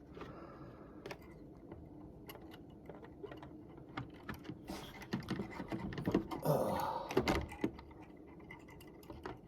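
Small plastic clicks and taps of HO-scale model train cars being handled and fitted together by hand, with a louder patch of clicking and rustling about two-thirds of the way through.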